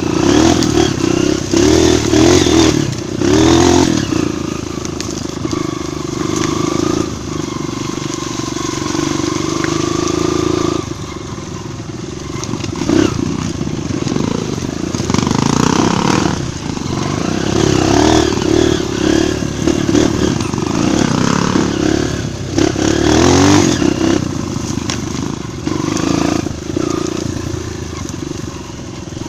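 Single-cylinder four-stroke dirt bike engine running on a trail ride, the throttle opened and eased off again and again so the engine note rises and falls every second or two.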